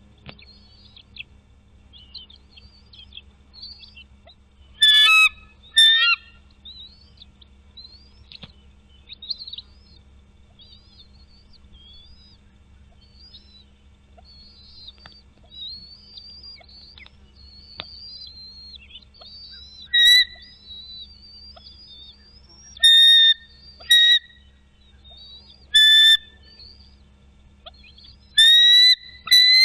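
Bald eagle giving short, loud, high whistled calls, about eight in all, singly and in quick pairs, with faint songbird chirping throughout.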